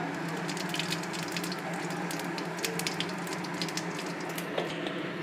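Whole cumin seeds and dried red chillies sizzling in hot mustard oil as a tempering, with many small sharp crackles over a steady hiss.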